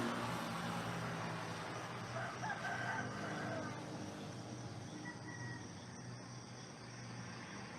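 A rooster crowing once, about two seconds in, over a steady low hum.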